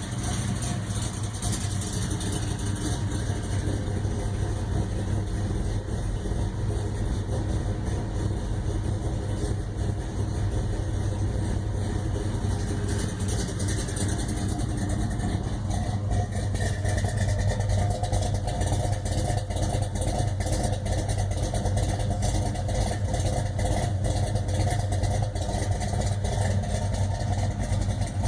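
1968 Plymouth Road Runner's 383 cubic-inch big-block V8 idling steadily.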